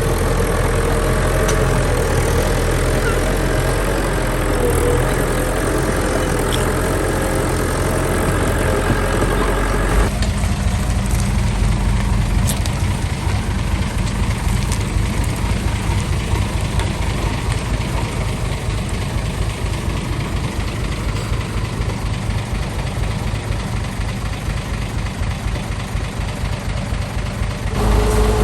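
Heavy diesel engine of construction machinery running steadily. About ten seconds in, the sound changes abruptly to a lower, pulsing run without the higher tones.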